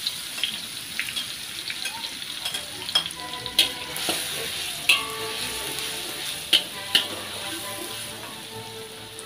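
Chopped garlic and onion sizzling in hot oil in a wok as they are sautéed until crisp, stirred with a slotted metal turner that clinks and scrapes against the pan several times. The sizzle eases off near the end.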